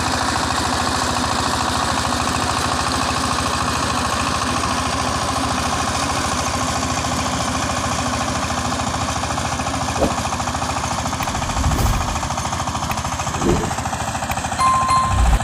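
Power tiller's 20 hp Saifang diesel engine running steadily with a fast, even chugging. A few dull low thumps come in the second half.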